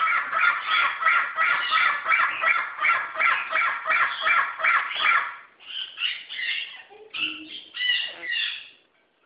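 Caged parrots squawking: harsh calls repeated evenly about three times a second for some five seconds, then a few irregular squawks of different shapes.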